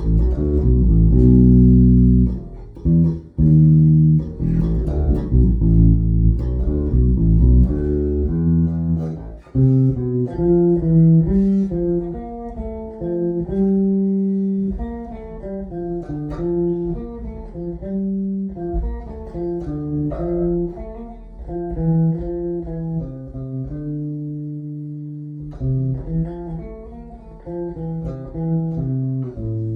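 Custom American Deluxe Precision Bass played through a bass amp on its bridge pickup, with mids and treble boosted for a honking, biting tone. The first nine seconds or so are heavy low notes, followed by a run of separate higher melodic notes.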